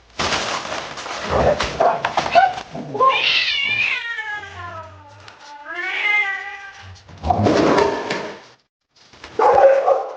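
A domestic cat giving two long, drawn-out yowling meows, the second rising and then falling in pitch. Loud harsh noisy bursts come before, between and after the calls.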